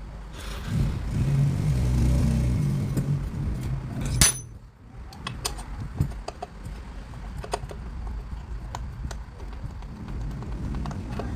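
A motor vehicle engine runs for about three seconds and ends in one sharp, loud metallic clank. Scattered small clicks and taps of work on metal follow.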